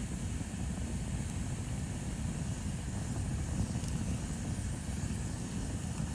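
Bonfire burning with a steady low rumble and a few faint crackles.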